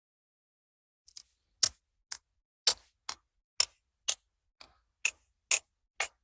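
A person imitating a toaster with a steady run of sharp mouth clicks, about two a second, like a toaster's timer ticking. The clicks start about a second in.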